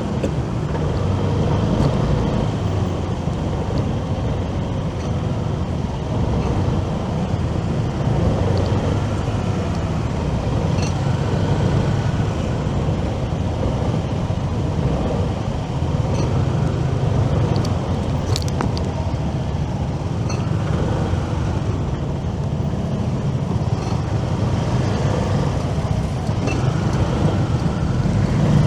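Steady city traffic and road noise heard from a moving motorcycle, with a constant low rumble.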